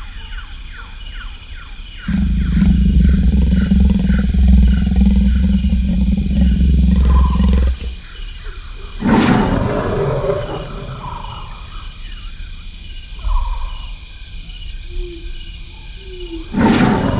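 Lion-like animal roaring: one long, low roar lasting about six seconds, then two short, loud roars, one about nine seconds in and one near the end, with music faintly behind.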